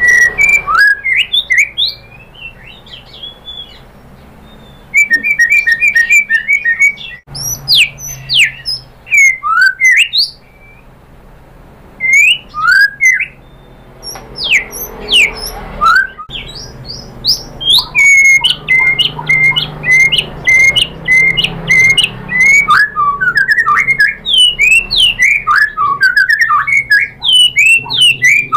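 White-rumped shama (murai batu) singing a loud, varied song of whistled sweeps and runs of quick repeated notes, in bursts with a few short pauses between them.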